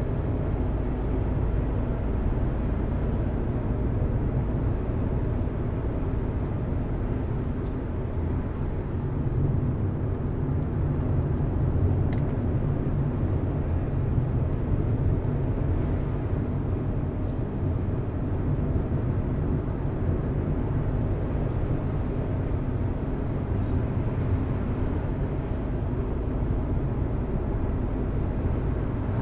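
Car being driven on a road: a steady low rumble of engine and tyres.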